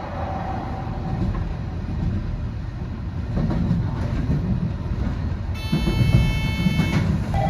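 Train running on rails: a steady low rumble of wheels and running gear, with some clickety-clack. A steady high electronic-sounding tone comes in over it near the end.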